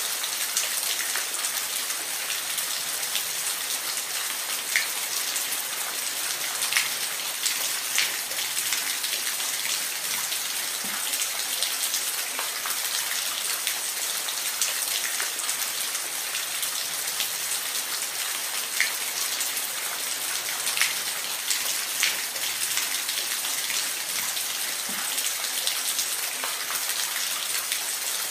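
Steady hiss of falling water, with scattered sharper drips and splashes standing out from it.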